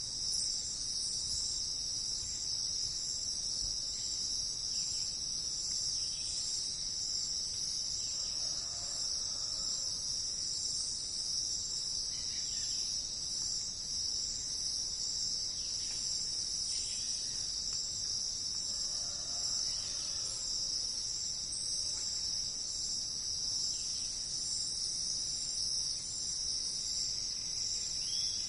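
Steady high-pitched chorus of insects that never pauses, with faint short bird calls now and then.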